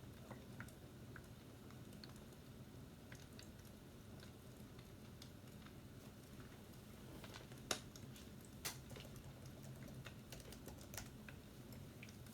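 Faint, scattered light clicks and taps at an irregular pace, two of them louder about eight and nine seconds in, over a faint steady low hum.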